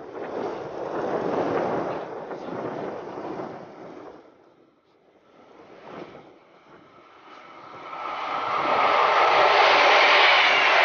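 A rushing, gusting noise for the first four seconds, then a Westfalenbahn electric multiple unit approaching and passing at speed, its rolling noise growing loud from about eight seconds in with a steady whine over it.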